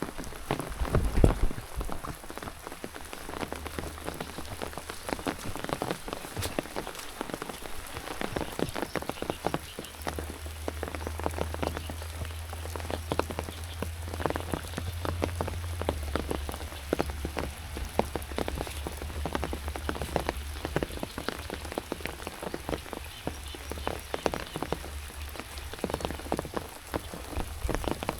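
Rain falling steadily, many separate drops striking close by, over a low rumble, with a dull thump about a second in.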